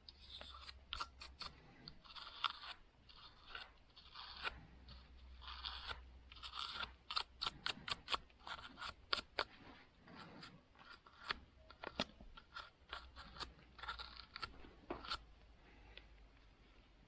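Hand work on a saw: short irregular scraping strokes mixed with many sharp clicks, under a faint steady low hum.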